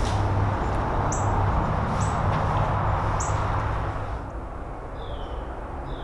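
Small songbirds chirping: short high chirps about once a second, then a few short downward-sliding notes in the second half. Under them runs a steady rushing noise with a low rumble that eases off about two-thirds of the way through.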